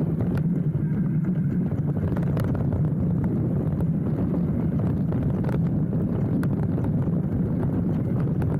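Hardtail mountain bike rolling fast down a dirt trail, heard from the handlebars: a steady rumble of tyres and frame vibration, with a few sharp knocks from bumps.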